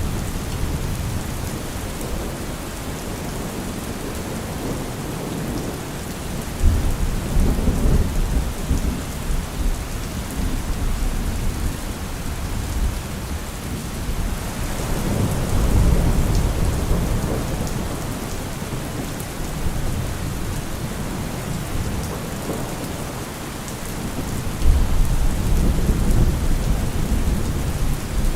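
Heavy rain falling in a steady dense hiss, with deep low rumbling swells that come in sharply about seven seconds in and again near the end, and rise once more in the middle.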